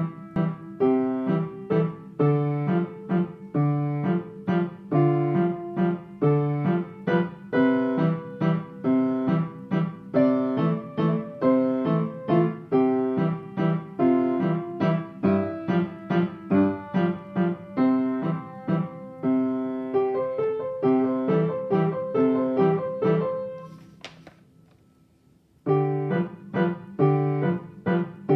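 Piano playing a waltz: a steady stream of melody notes over a regular repeating bass. About 23 seconds in the playing stops and the notes die away, with one brief click, then it resumes about two seconds later.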